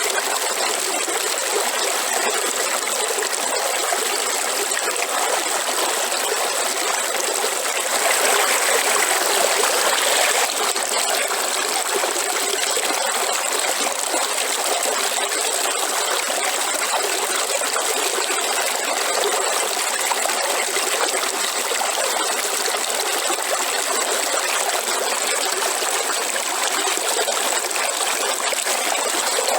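Waterfall: steady rushing of falling water, swelling slightly for a couple of seconds about a third of the way in.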